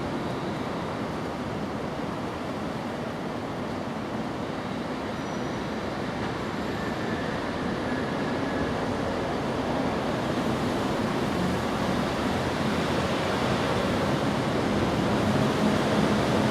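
Steady rushing background noise with no distinct events, slowly growing a little louder toward the end.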